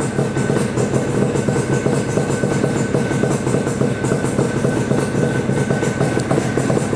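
A 1976 Yamaha RD400's air-cooled parallel-twin two-stroke engine idling steadily through DG expansion-chamber exhausts, with a fast, even two-stroke crackle.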